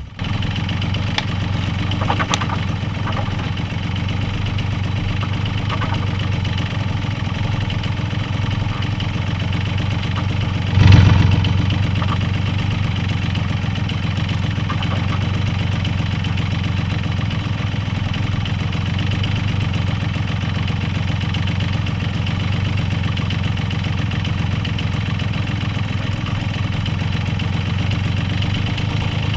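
The BFX's engine idling steadily, with one brief rev about eleven seconds in before it settles back to idle.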